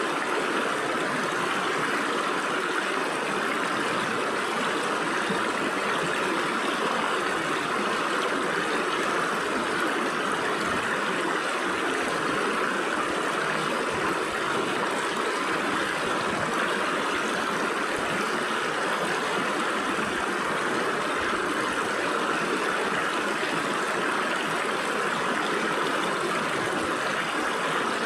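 Stream water splashing and gurgling as it flows steadily through gaps between rocks.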